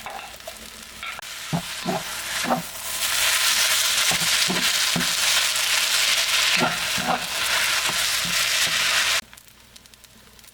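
Food frying in a hot pan while it is stirred, the utensil scraping and knocking against the pan every half second or so. A loud sizzle builds about three seconds in and cuts off suddenly about nine seconds in.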